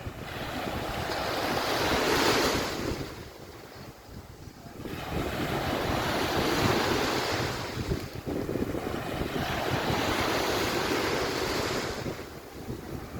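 Sea waves washing onto a beach in slow swells, building to a peak about two seconds in, easing off, then surging again for several seconds. Wind buffets the microphone throughout.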